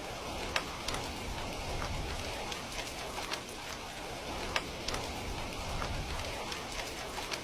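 Steady rain falling, mixed with a crackling wood fire that gives irregular sharp pops over a low, even rumble.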